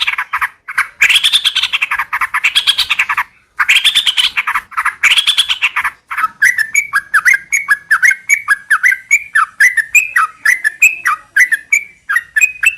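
Yellow-vented bulbuls (trucukan) calling: four loud, harsh chattering bursts of a little under a second each, then, from about halfway in, a long quick run of short chirping notes at about three to four a second, rising slightly in pitch. It is a lure call meant to set other trucukan singing.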